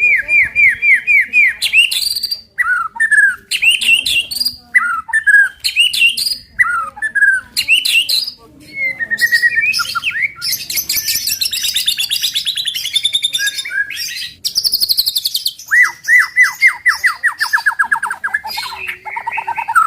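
White-rumped shama (murai batu) singing in rapid-fire bursts: quick runs of repeated sweeping notes, varied whistled phrases, and a dense fast trill through the middle.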